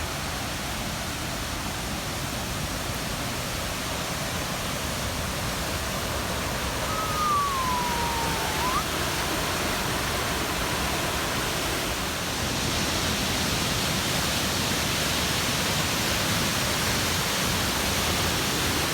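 Steady rush of a large waterfall on the River Clyde, the Corra Linn falls, growing louder about two-thirds of the way through. One brief whistle-like call that falls and then rises is heard over it near the middle.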